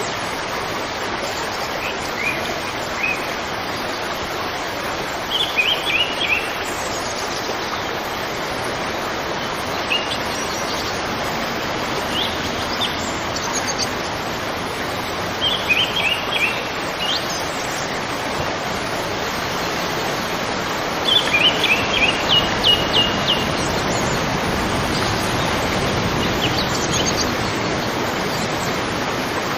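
Steady rushing of flowing river water, with birds chirping over it in short quick bursts several times, the longest run of chirps about two-thirds of the way through.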